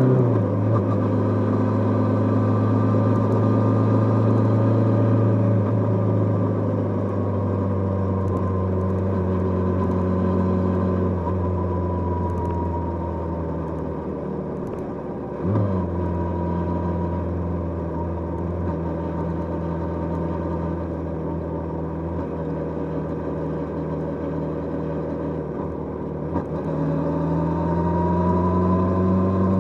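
Kawasaki GPZ550's air-cooled inline-four engine running under way, heard without wind noise. The engine note drops at the start and holds fairly steady. About halfway through it gives a brief jolt and dip, then it climbs again near the end as the bike accelerates.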